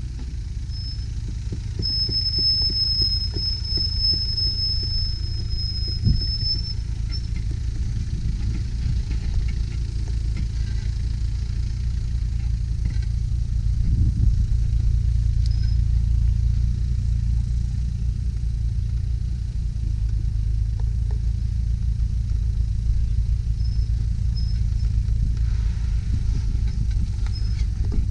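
Land Rover Discovery engine running at low speed off-road, a steady low rumble throughout. A thin, high, steady whistle sounds for about four seconds near the start.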